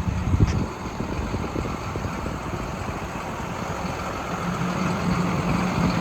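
Diesel truck engine idling steadily, the Hino 338's 260-horsepower inline-six turbodiesel, with a low even rumble. There is a single knock about half a second in.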